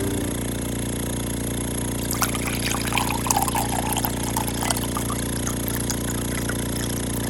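Rocker300 oil-free vacuum pump running with a steady hum, with light clicking and rattling from about two to five seconds in.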